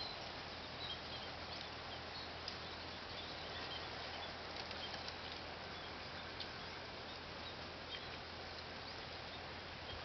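Small birds giving faint, scattered short high chirps over a steady background hiss.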